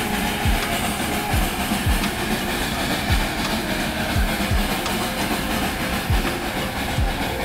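Darjeeling Himalayan Railway toy train carriage running on the narrow-gauge track: a steady rumble with irregular low knocks from the wheels, about one every half second to a second.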